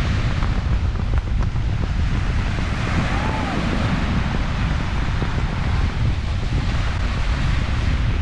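Wind buffeting the microphone: a steady low rumble under a hiss.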